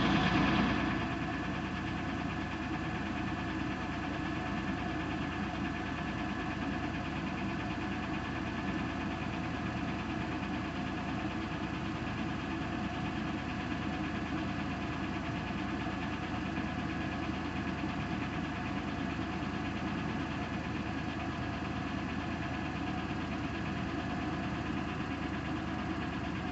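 2000 Buick Century's 3.1-litre V6 idling steadily with a rapid ticking from the valvetrain: lifter tick, a sign of a noisy hydraulic lifter.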